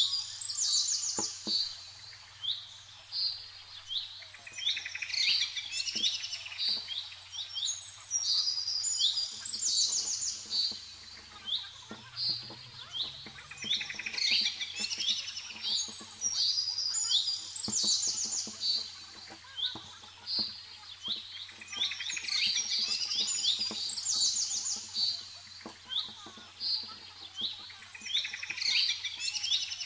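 Small birds chirping over and over in quick, high clusters, over a faint low steady hum, with a few faint taps.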